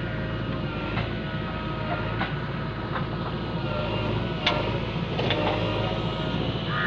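Diesel engine of heavy farm or earth-moving machinery running steadily at a constant speed, with a few sharp clicks and knocks over the top.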